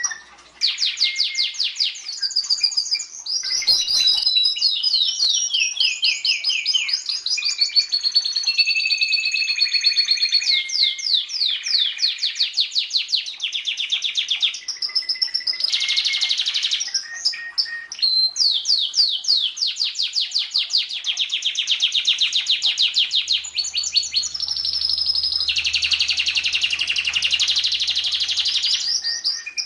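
Domestic canary singing one long unbroken song of fast trills and rolled runs of repeated notes, switching to a new phrase and pitch every second or two. A brief click comes about four seconds in.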